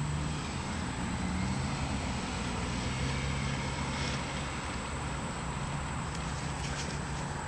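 An engine running steadily with a low, even hum that drifts slightly in pitch.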